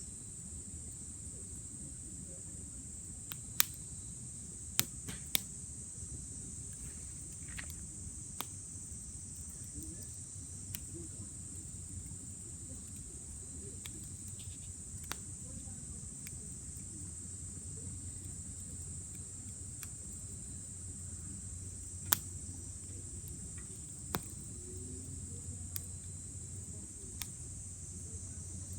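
Wood campfire crackling, with a few sharp pops, three close together about four seconds in and another about two-thirds through, over a steady high-pitched chorus of night insects.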